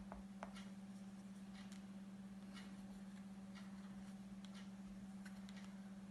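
Faint, scattered light ticks and scratches of a pen drawing, over a steady low electrical hum.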